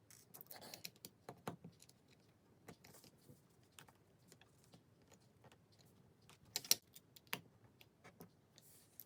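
LEGO plastic bricks clicking and tapping as they are handled and pressed together: faint, irregular light clicks, the sharpest two a little after six and a half seconds and near seven and a half.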